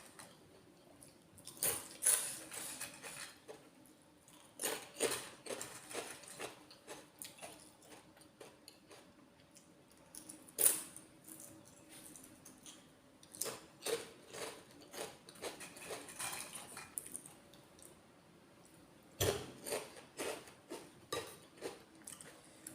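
Close-miked eating sounds: wet chewing and smacking in bursts, with a sharp clink of a spoon on a dish a little before the halfway point.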